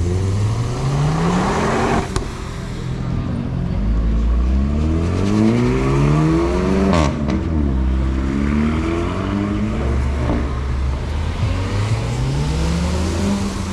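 Car engines revving and accelerating hard, rising in pitch several times, with a sharp crack about seven seconds in.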